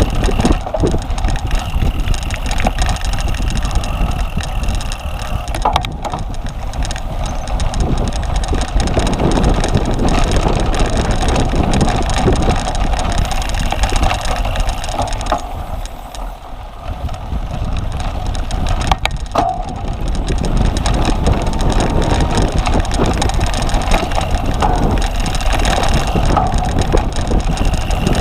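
Cyclocross bike riding over a rough course: steady wind on the microphone over a rumble and scattered rattling from the bike, easing briefly about two-thirds of the way through.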